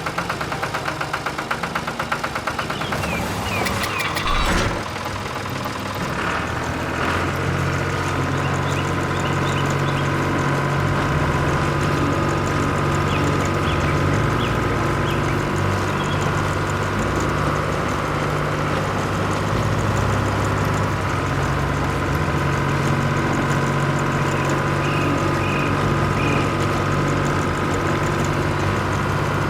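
A cartoon farm-vehicle engine sound effect: it chugs in fast even pulses for the first few seconds, then settles into a steady running hum.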